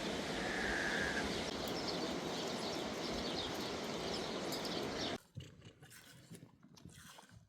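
Steady outdoor rushing noise with a brief high chirp-like tone near the start, cut off abruptly about five seconds in, leaving quiet ambience with faint small clicks.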